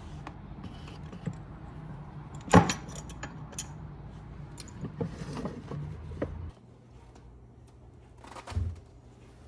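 Metallic jingling and clinks, the loudest a sharp clink about two and a half seconds in, over a steady low hum that cuts off suddenly about six and a half seconds in; another knock near the end.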